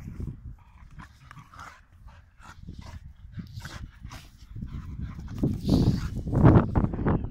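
Dogs play-fighting: short, irregular dog vocal sounds and scuffling, growing louder and busier in the second half.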